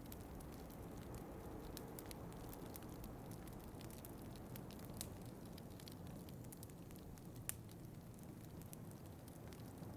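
Wood fire crackling with scattered sharp pops, one louder pop about seven and a half seconds in, over a steady low rush of wind.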